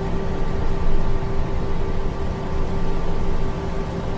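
Steady drone of an airliner's engines and rushing air, heard from the flight deck during the climb just after gear and flaps are raised, with a steady hum running through the rumble.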